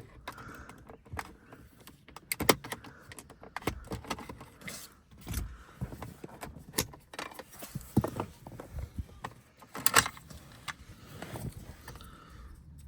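Hard plastic car interior trim pieces being handled and pushed into a console by hand: irregular clicks, taps and small clatters, a few sharper knocks among them.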